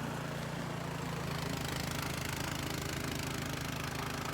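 Troy-Bilt gas snowblower engine running steadily.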